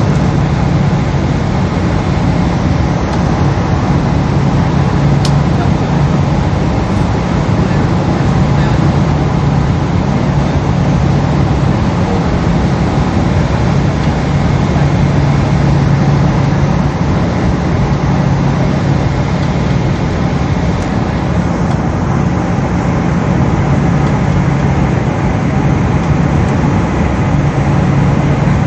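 Steady jet-airliner cabin noise inside a Boeing 777: the engines and rushing air make an even roar with a constant low hum.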